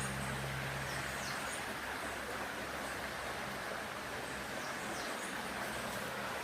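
Steady rush of a river's running water with short, high bird chirps every second or so; a low hum fades out about a second in.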